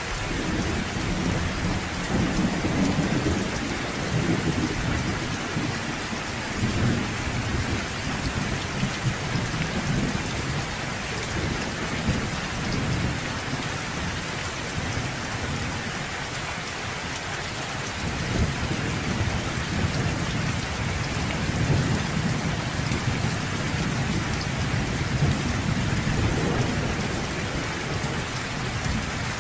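Steady rain falling, with low rolling thunder rumbling under it; the thunder eases off through the middle and builds again in the second half.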